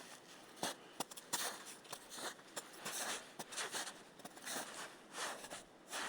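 Footsteps crunching over the forest floor, one step about every half second to second, with a few sharp snaps or clicks among them.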